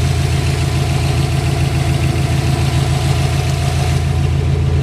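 2005 Subaru Impreza WRX's 2.0-litre turbocharged flat-four engine idling steadily, heard from the open engine bay with its K&N cold-air intake.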